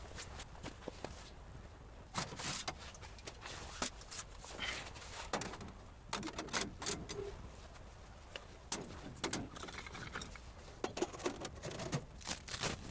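Irregular soft knocks, clicks and rustles, with no steady sound behind them.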